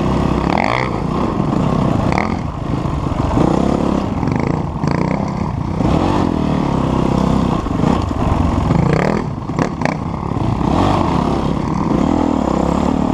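Dirt bike engine running and revving while riding, its pitch rising and falling with the throttle. There are a few sharp clicks about ten seconds in.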